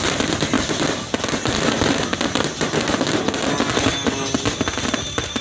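Fireworks shells bursting in a dense, continuous barrage, with many overlapping bangs and crackles and no gap between them.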